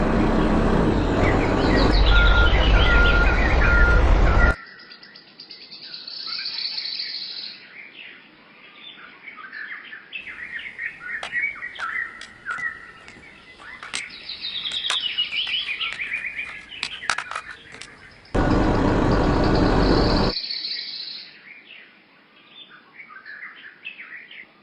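Small birds chirping and singing in quick, varied phrases. The song is cut into twice by a loud, steady rushing noise: once for the first four seconds or so, and again for about two seconds later on.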